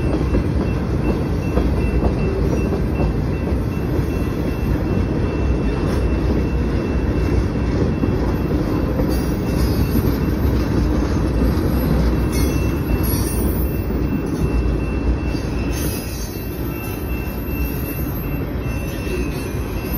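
Freight train cars, mostly tank cars, rolling past: a steady rumble and rattle of steel wheels on the rails, easing slightly near the end.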